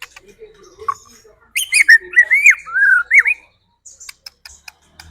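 White-rumped shama (murai batu) singing: a burst of loud, swooping whistled notes starts about one and a half seconds in and lasts about two seconds. Scattered sharp clicks come before and after it.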